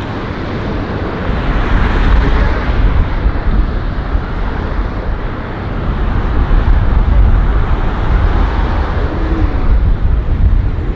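Strong wind buffeting the microphone: a heavy, gusting low rumble that swells and eases, loudest about two seconds in and again from about six seconds on.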